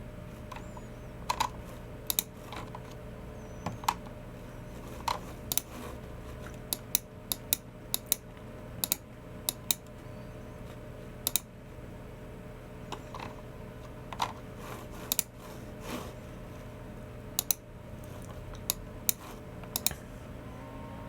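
Typing on a Logicool MX Keys Mini low-profile keyboard: irregular keystrokes, some in quick pairs, with pauses of a second or more between, over a steady low hum.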